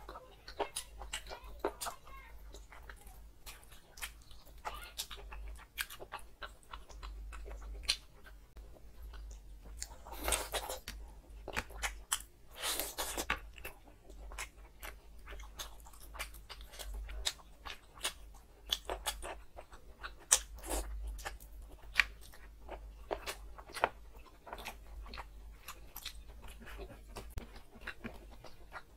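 Close-miked eating: a person chewing and crunching chicken curry on the bone, with many short mouth clicks and smacks, and two longer, louder noises near the middle.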